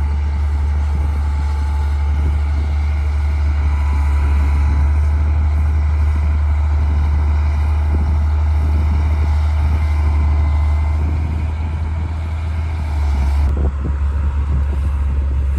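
D60 bulldozer's diesel engine running steadily and loud, with a faint high whine over it; the engine note changes sharply about three-quarters of the way through.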